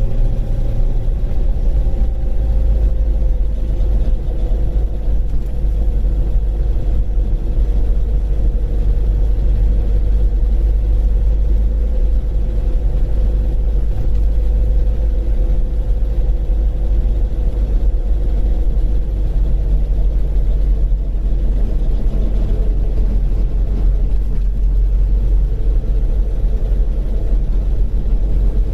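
Rover Mini on the move: a continuous low rumble of engine and road noise, with a steady whine that slowly falls in pitch.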